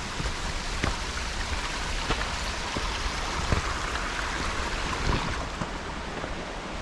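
Steady rush of a mountain stream, with a few faint light taps scattered through.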